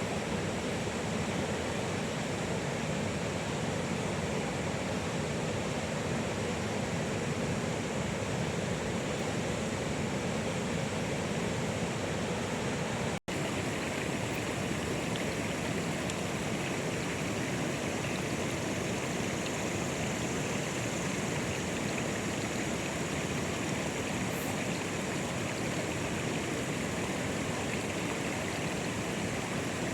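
Steady, even water noise that does not let up. It drops out for an instant about 13 seconds in.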